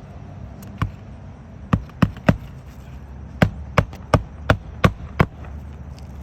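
Hammer driving nails into asphalt roof shingles: ten sharp blows, one, then a quick run of three, then six in a steady rhythm of about three a second.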